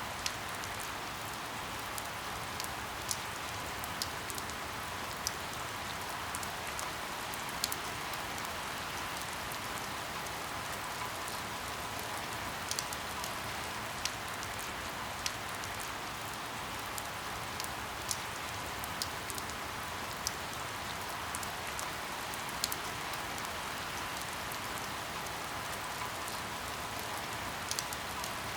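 Steady rain hiss with scattered sharp drop ticks, about one every second or so, as on a windowpane.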